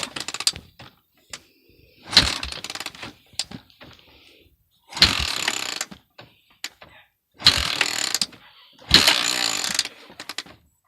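Cold Honda FourTrax ATV engine being cranked over in about five short attempts, each lasting about a second, with gaps between them. It does not catch: a cold engine refusing to start with its choke not working.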